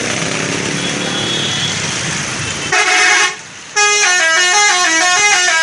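Street noise, then about three seconds in a vehicle horn sounds one loud held note. After a brief gap, a musical horn plays a quick tune of notes stepping up and down.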